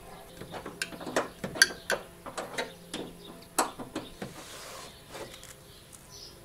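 Loose headlight in the front of a VW Golf Mk2 rattling in its mount: irregular sharp clacks and knocks over about four seconds, thinning out near the end.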